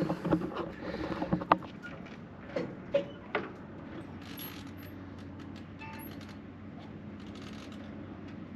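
A few sharp knocks and clicks of handling in the first three seconds or so, then a steady faint background hum.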